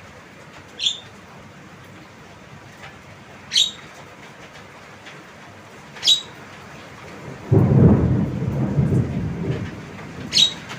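Javan myna giving short, sharp calls, four of them a few seconds apart. About seven and a half seconds in, a loud low rumble sets in and stays the loudest sound.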